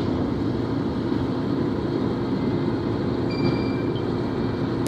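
A vehicle running with a steady low rumble and an even hum.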